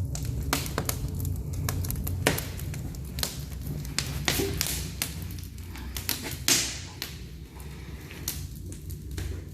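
Wood fire crackling in an open brick fireplace: irregular sharp pops and snaps over a steady low rumble of the burning.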